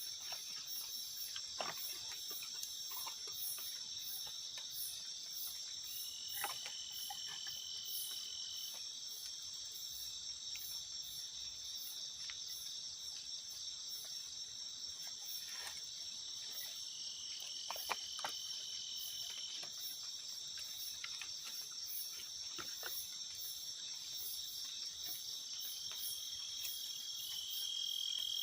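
Forest insect chorus, chiefly crickets: a steady high-pitched trilling with a fast, even pulsing buzz above it. Now and then a short level whistle sounds, along with a few faint clicks.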